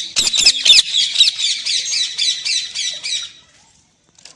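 Pet parrot giving a fast run of harsh, high squawks, several a second, which stop about three and a half seconds in and start again right at the end. The owner takes the calling for the bird quarrelling and scolding.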